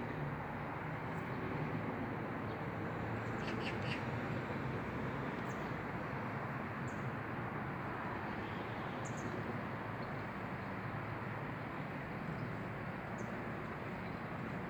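Scattered short, high bird chirps over a steady background rush of outdoor noise, with a quick cluster of chirps about a quarter of the way in.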